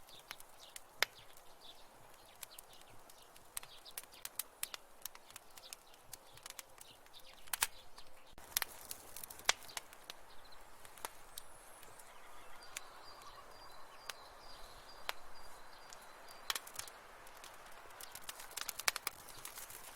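Wood fire in a fireplace crackling, with irregular sharp pops and snaps over a soft steady hiss. A faint thin high tone runs through the middle part.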